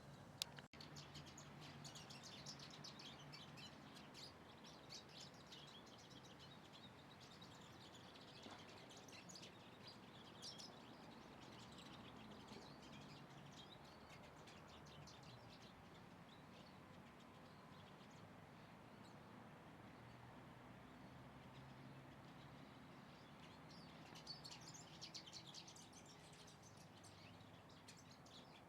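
Small birds chirping faintly, with many short, high chirps in quick succession, busiest near the start and again about 24 seconds in.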